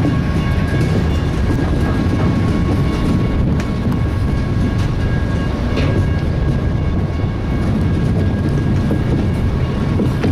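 CSX intermodal freight train rolling past at close range: a steady heavy rumble of wheels on rail, with a thin high whine running underneath and a few sharp clicks over rail joints.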